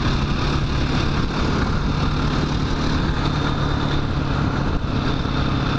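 Single-cylinder dual-sport motorcycle engine running at a steady cruising speed, with wind rushing over the helmet-mounted microphone.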